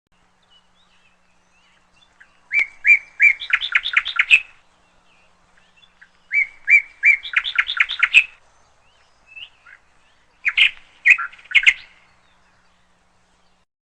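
Lovebirds chirping in three quick bursts of rapid chirps, each burst lasting one to two seconds, with short pauses between them.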